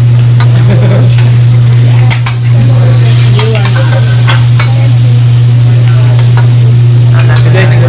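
Food sizzling on a hibachi griddle, with metal spatula clicks and scrapes now and then, over a loud steady low hum.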